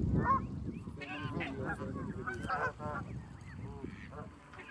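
A flock of geese honking and calling over one another, many short calls overlapping.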